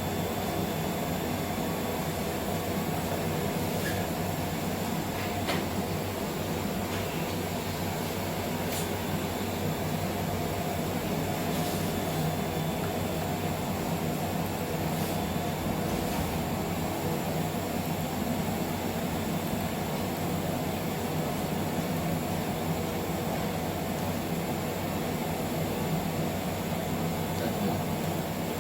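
Laboratory machinery running steadily: a constant low hum under an even rushing, fan-like noise, with a few faint ticks.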